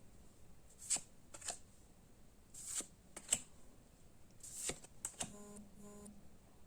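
Pokémon trading cards being handled and slid against one another: a series of short, crisp swishes and clicks, followed by a brief low hum near the end.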